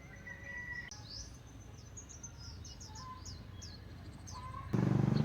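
Small birds chirping, a run of short, quick, falling chirps over a faint steady background. Near the end, a sudden loud low buzz cuts in.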